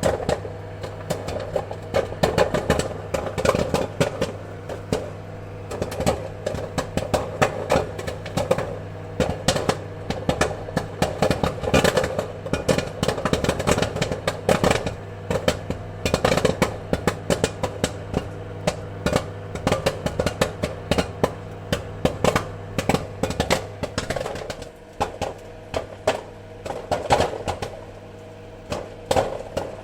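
Popcorn kernels popping in a rapid, irregular run of sharp pops over a steady low hum, thinning slightly in the last few seconds.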